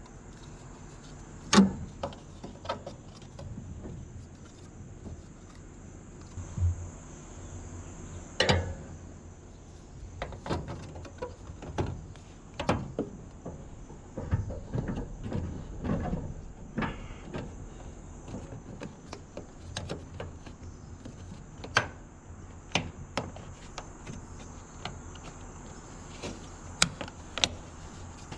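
Scattered knocks, clicks and scraping of hands working an exhaust fan vent into a hole cut for it, with a few sharper knocks.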